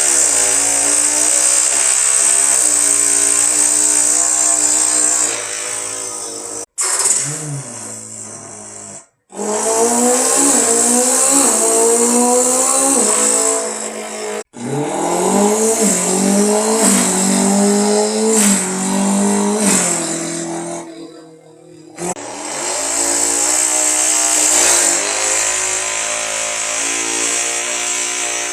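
Loud car engines revving and accelerating in a run of short clips joined by abrupt cuts; the engine pitch climbs and falls again and again.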